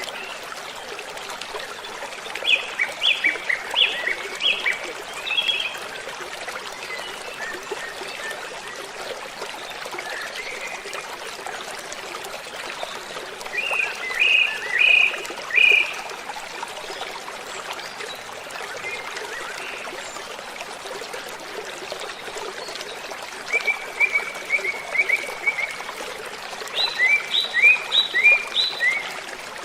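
Waterfall rushing with a steady hiss of falling water, while a bird sings phrases of quick, high repeated notes that come back every several seconds, including a faster trill about three-quarters of the way through.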